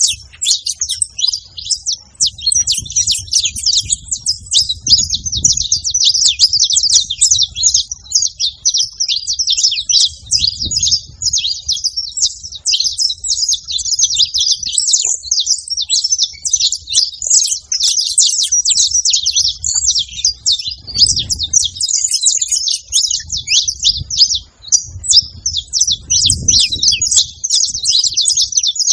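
Saffron finch singing: a long, unbroken run of rapid, high chirps and trills.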